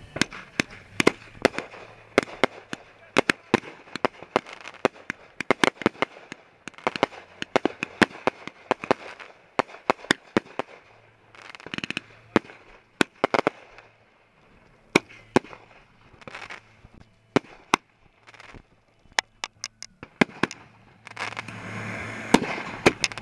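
Fireworks and firecrackers going off all around: sharp bangs and pops at an uneven pace, several a second at times. Near the end a fuse hisses and sparks as a boxed firework close by is lit.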